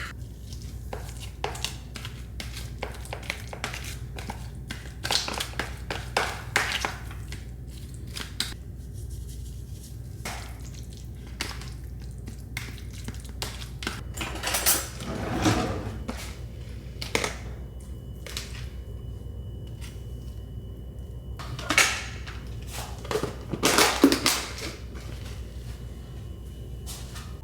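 Dishes and utensils being handled: scattered clinks and knocks with a few louder scraping clatters, over a steady low hum.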